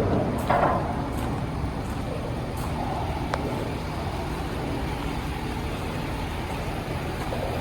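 2016 Ford F750 medium-duty truck engine running steadily at idle, with a few short knocks in the first second.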